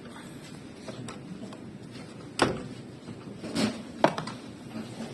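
A few sharp knocks and clacks of hard parts and tools being handled while a car sunroof mechanism is worked on. One knock comes about halfway through, and two more follow close together a second later.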